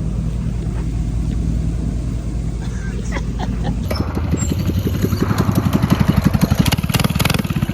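A vehicle engine idling steadily; about four seconds in the sound switches abruptly to an engine running with a fast, evenly pulsing exhaust note that rises and swells, like a small motorbike engine being revved.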